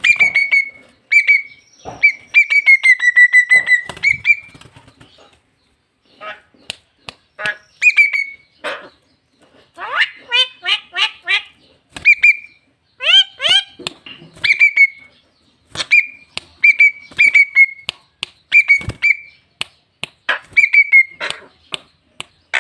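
Javan myna giving a string of short whistled calls, mixed with clicks and chattering notes. A longer whistled run comes in the first few seconds, and there is a short pause a little later.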